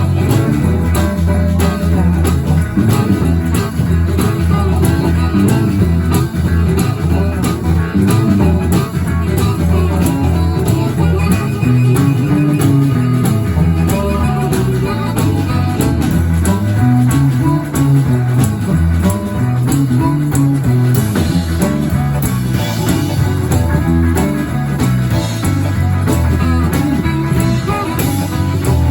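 A live blues band playing a steady groove, with guitar over a moving bass line.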